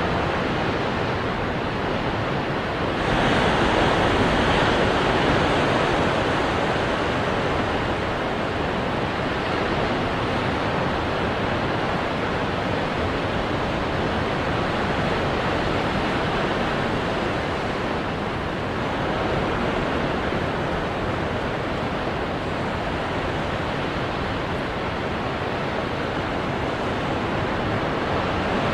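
Ocean waves breaking on rocks, a steady wash of surf that swells louder about three seconds in.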